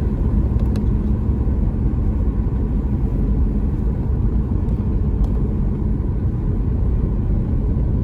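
Car driving on the road: a loud, steady low rumble of engine and road noise that starts abruptly.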